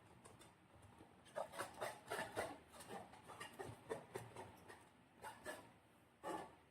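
Slime being squished by hand: a run of short, soft, sticky squelches and clicks, several a second, starting about a second in.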